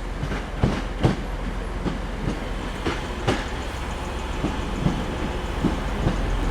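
Train wheels clicking and clattering irregularly over rail joints and points, over a steady low hum.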